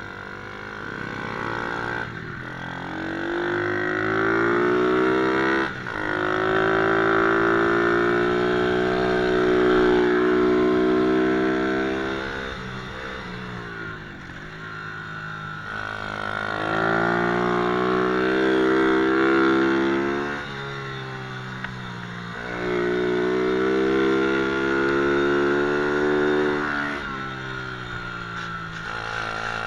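Small 120cc pit bike engine revving hard, its pitch climbing and holding high, then dropping back several times as the bike accelerates and slows for corners around a track.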